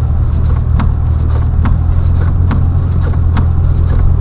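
Inside the cabin of a moving vehicle on a snowy road: a steady low engine and road rumble, with a sharp tick repeating evenly a little more than once a second.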